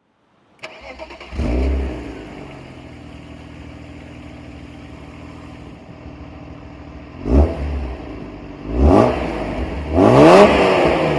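BMW M3 engine being started: a brief crank, then it catches with a rev flare and settles into a steady idle. About seven seconds in it takes a quick throttle blip, then another, and near the end it is revved higher.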